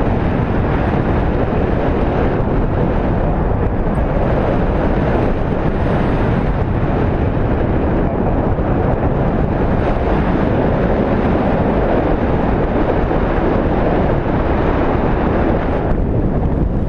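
Steady rush of airflow buffeting the microphone of a paraglider in flight, loud and unbroken.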